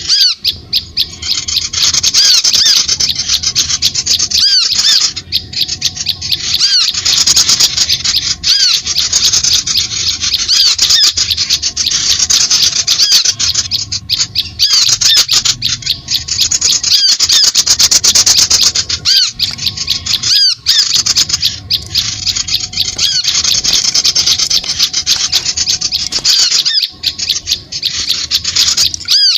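Bird-lure recording of many small birds chirping and squawking at once, a dense, loud, high-pitched chatter of quick chirps with brief breaks every few seconds.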